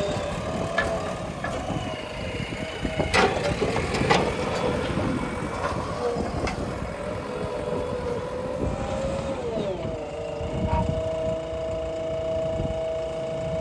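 Backhoe loader's diesel engine running with a whining tone that wavers and then drops in pitch about ten seconds in, and a few sharp clanks about three, four and six seconds in.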